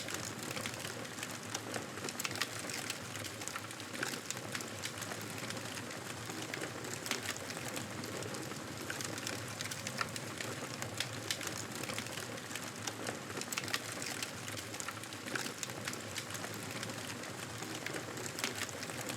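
Wood fire crackling in a fireplace: a steady soft hiss with many small sharp pops and snaps at irregular intervals.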